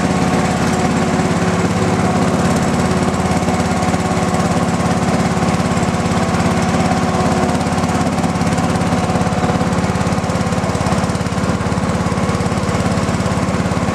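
A 1986 John Deere 165 hydrostatic lawn tractor's engine running steadily and loudly, at an even speed.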